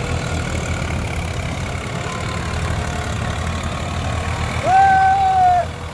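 Tractor diesel engine running steadily with a low rumble. Near the end a loud, high, held call sounds for about a second over it.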